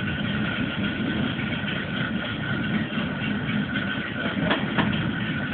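Train running along the line, heard from inside the driver's cab: a steady low rumble with a thin, steady high whine over it, and two sharp clicks near the end.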